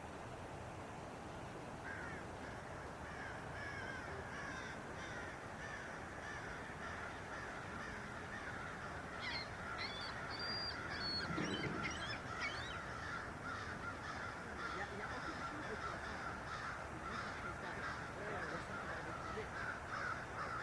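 A dense chorus of birds chirping and calling, starting about two seconds in, over a steady background hiss, with a louder call about eleven seconds in.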